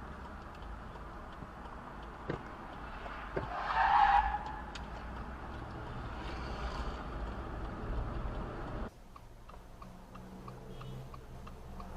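Car driving noise as heard on a dashcam, a steady low road and engine rumble, with a brief louder squeal about four seconds in. About nine seconds in it cuts to a quieter car interior with a regular ticking, like a turn signal clicking.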